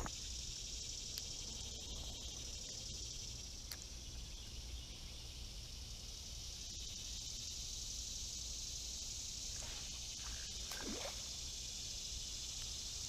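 Steady high-pitched drone of an insect chorus, such as crickets, over a faint low rumble, with a few faint brief chirps about ten seconds in.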